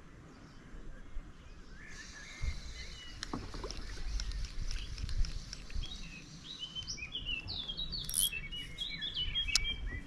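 Songbirds singing and chirping, the calls growing busier and louder in the last few seconds, over a low rumble.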